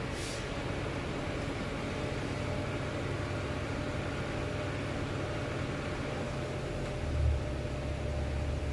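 Steady whooshing machine noise with a low hum, heard from inside a car at a car wash; a deeper low rumble comes in about seven seconds in.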